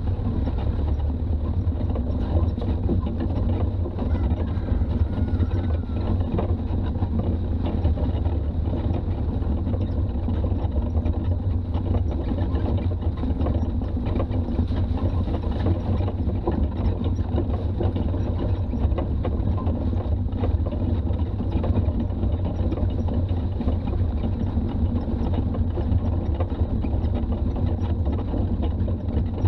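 Toyota BJ40's diesel engine running steadily while driving, a constant low drone with road noise and no change in pace.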